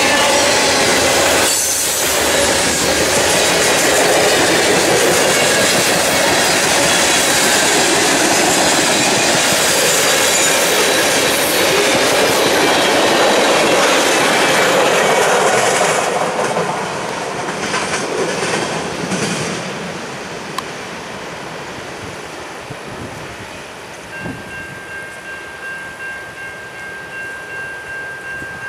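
Freight cars of a fast Norfolk Southern train rolling past, their wheels on the rails making a loud, steady rush of noise that fades after about sixteen seconds as the end of the train goes by and moves away. Near the end a steady high ringing tone comes in.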